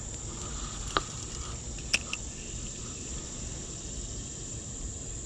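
Insects, crickets by the sound, trilling steadily in one continuous high tone. Two short sharp clicks break in about a second apart near the start.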